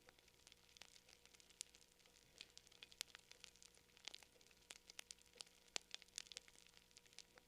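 Campfire crackling: faint, irregular sharp pops and snaps, several a second, over a low steady hum.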